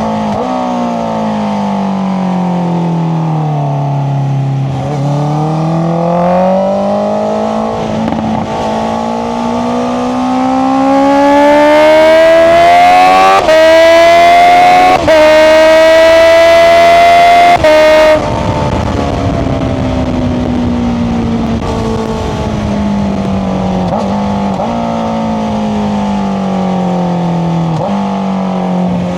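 Honda CBR650R inline-four with an Akrapovic exhaust: engine revs fall off at first, then the bike accelerates hard through several gears with quick upshifts, loudest at full throttle through the middle. The throttle shuts off abruptly, and the revs wind down with three downshift rev blips as the bike slows.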